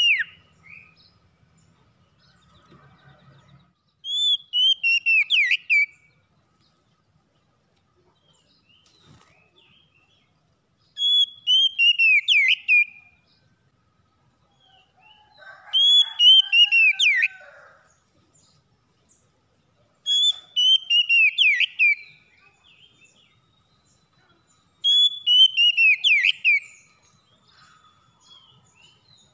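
Oriental magpie-robin (kacer) singing: five short phrases of quick, falling whistled notes, each about two seconds long, repeated every four to five seconds. A lower, rougher call joins the third phrase.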